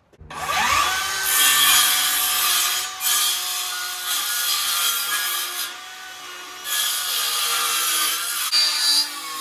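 Cordless power saw spinning up with a rising whine, then cutting through timber with a steady high hiss, the load easing off briefly twice before it carries on.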